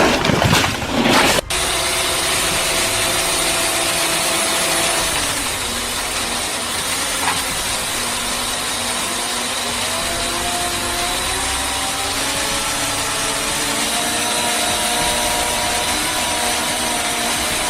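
A loud burst of noise for about the first second and a half, cutting off suddenly, then a machine engine running steadily with faint whining tones that shift in pitch now and then.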